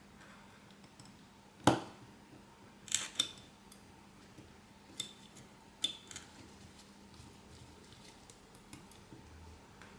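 Small repair tools and phone parts clicking and tapping on a work surface during a smartphone repair: a few sharp, separate clicks, the loudest about two seconds in, over a faint steady hum.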